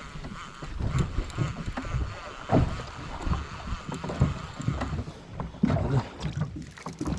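Small fishing boat at sea: wind on the microphone and water against the hull, with scattered knocks and bumps.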